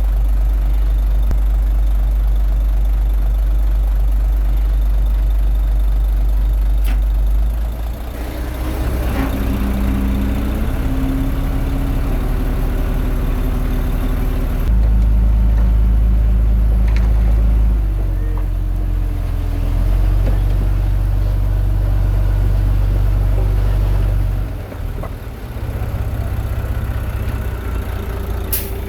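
Komatsu D21A bulldozer's diesel engine running as it works, with its pitch and loudness changing several times as the load changes. There is a sharp click near the end.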